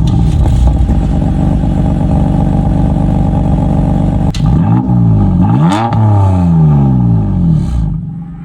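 Car engine running steadily, then revving up and back down in sweeping rises and falls from about halfway through, fading out near the end.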